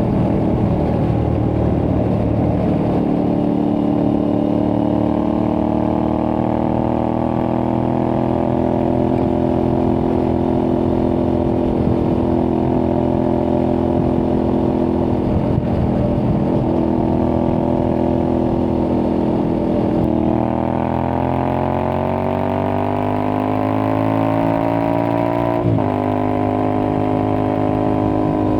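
Aprilia Tuareg 660's parallel-twin engine through a replica Akrapovic exhaust, running at a steady cruise. About two-thirds through the pitch dips, then climbs for several seconds as the bike accelerates, with a brief break in the sound near the end.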